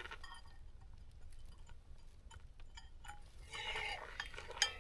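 Faint, scattered clicks and light clinks of small metal and glass items being handled, with a short cluster of clatter near the end.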